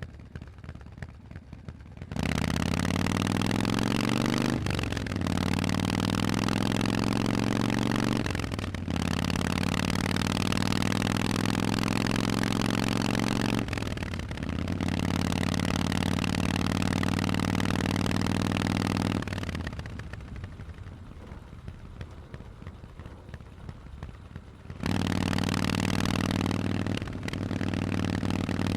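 Harley-Davidson Forty-Eight's 1200 cc V-twin through Vance & Hines aftermarket exhausts, quiet at first, then accelerating hard through the gears. The pitch climbs in each gear, with short dips at three upshifts. About two-thirds of the way through it drops off the throttle for a few seconds, then pulls hard again with one more shift near the end.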